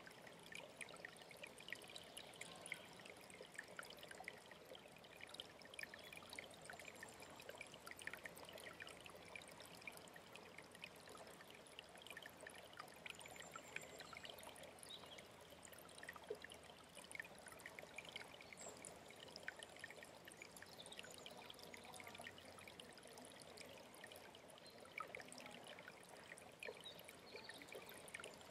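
Alpine stream trickling and splashing steadily, faint.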